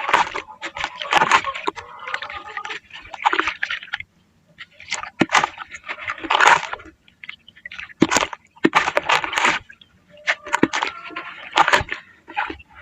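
Grainy moulded shapes being crushed and crumbled by hand, in repeated bursts of crunching and crackling about a second or two long, with sharp snaps as pieces break off.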